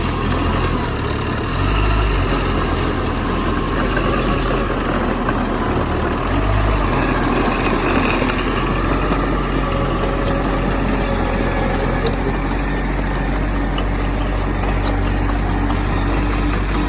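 Heavy earthmoving machinery's diesel engine running steadily, with a faint whine that rises slightly near the end.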